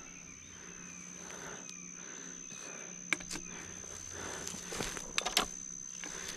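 Quiet woodland sound: a steady high-pitched insect drone over soft rustling and footsteps in brush, with a few sharp clicks and snaps about three and five seconds in.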